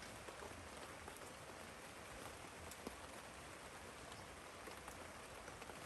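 Steady rain falling, faint, with scattered individual drops ticking on a surface.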